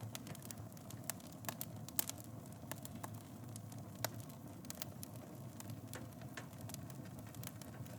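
Wood fire burning in a fireplace: a steady low rush of flame with irregular sharp crackles and pops, a few louder pops standing out about two and four seconds in.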